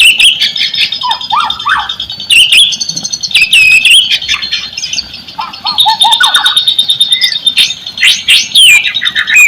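White-rumped shama (murai batu) singing loudly in full song: a fast, varied string of whistles, sweeping notes and chatters. It includes lower gliding whistles about a second in and again around five seconds, and a long rapid trill after about six seconds.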